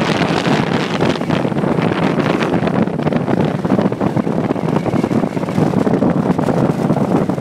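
Wind buffeting the microphone: a steady, rough rushing with no clear engine tone.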